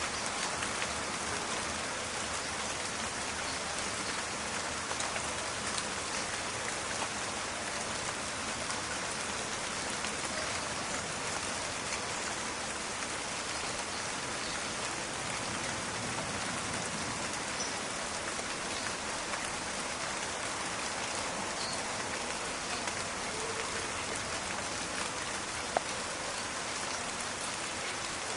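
Steady rain falling: a dense, crackling patter of drops, with one sharper, louder drop hit near the end.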